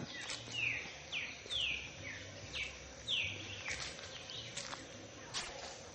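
A songbird singing a run of about five downward-sliding whistled notes in quick succession, followed by scattered short chirps.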